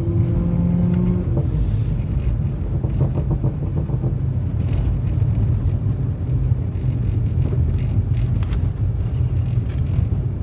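Audi B9 S4's turbocharged 3.0-litre V6 running on the move, a steady low exhaust rumble with a held engine note in the first second and a few sharp exhaust crackles scattered through.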